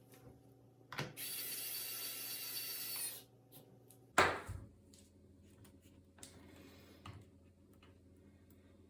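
A click, then a steady hiss lasting about two seconds, followed a second later by a sharp knock, the loudest sound, and a fainter, shorter hiss near the end.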